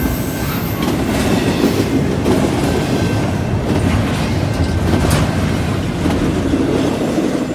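Double-stack container well cars of a CN intermodal freight train rolling past at speed: a steady loud rumble with the clickety-clack of wheels over the rails. About five seconds in there is one brief sharp metallic sound.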